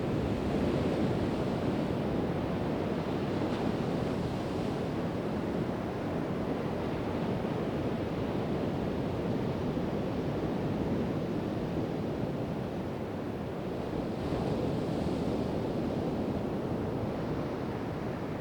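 Pacific Ocean surf washing onto the beach: a steady roar of waves, with louder breaking swells in the first few seconds and again about fifteen seconds in.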